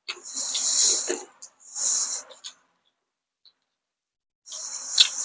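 Close-up eating noises: chewing and mouth smacking on food, heard in three bursts about a second long each, the third near the end.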